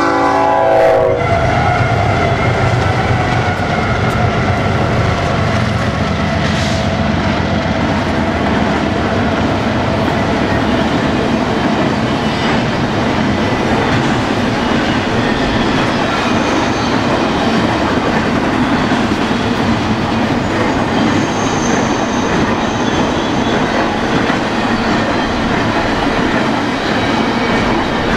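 A freight train horn sounds for about the first second, dropping slightly in pitch as it trails off. The cars of a BNSF double-stack intermodal train follow, rolling steadily past close by.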